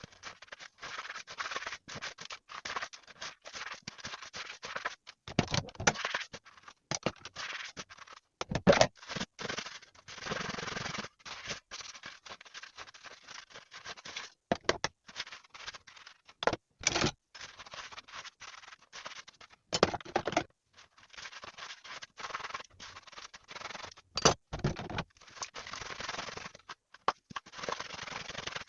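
Irregular scratching and scrubbing sounds of household work, with a few sharper knocks and clatters.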